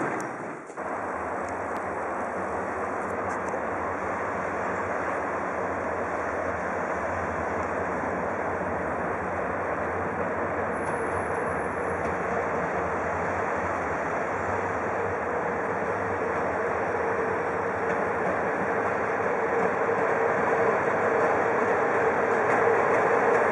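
Train moving on the tracks: a steady rolling rumble that grows louder over the last few seconds, with a steady whine coming up in the second half.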